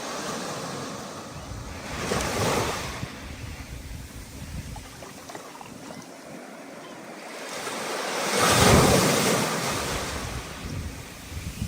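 Ocean waves breaking on a rough, stormy sea, with a wave's rush swelling about two seconds in and a louder one near nine seconds, and a wash of wind and surf between them.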